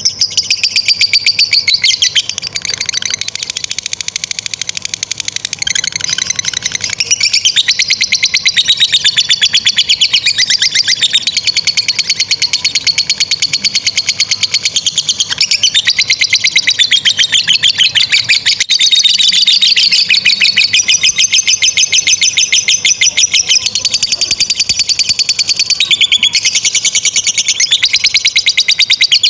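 Lovebirds chattering in a long ngekek: a shrill, very rapid run of repeated notes that goes on without break, dipping in loudness for a few seconds near the start before coming back at full strength.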